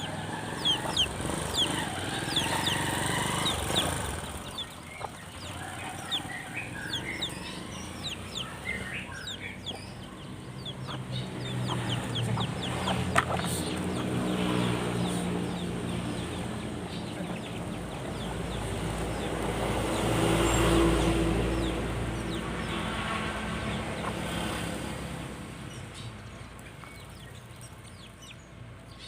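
Chickens clucking and small birds chirping, with a motor engine that grows louder toward the middle, peaks about twenty seconds in, then fades away.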